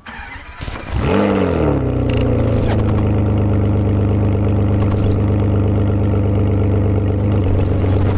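Car engine starting with a short rev about a second in, then settling into a steady idle.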